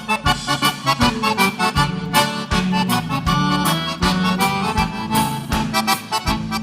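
Live gaúcho dance band playing an instrumental passage led by the piano accordion, its chords and melody over a bass line and a steady beat of drum hits about four a second.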